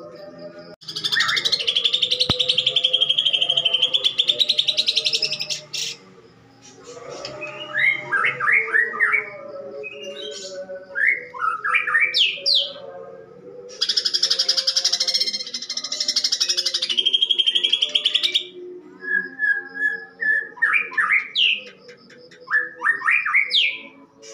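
Green leafbird (cucak ijo) singing a harsh, rough-voiced song. It gives two long, loud bursts of dense rapid chatter of a few seconds each, and between them short sharp sweeping whistled notes. The harsh chatter is mimicry of house sparrows fighting.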